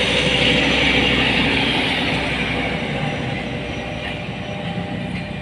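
A train passing on the rails, with a steady rolling rumble and hiss of wheels on track that slowly fades as it moves away.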